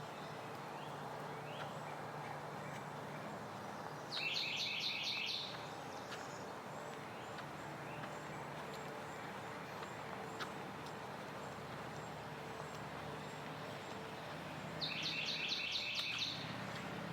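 A songbird singing two short bursts of rapidly repeated high notes, each about a second and a half long and about ten seconds apart, over a steady background hum.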